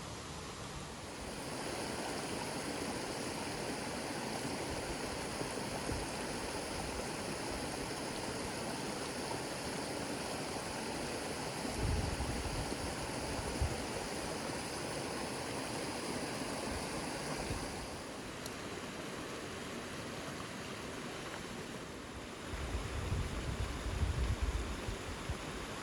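Heavy rain falling steadily, a dense even hiss that thins a little about two-thirds of the way through. Low rumbling bumps come about halfway and again near the end.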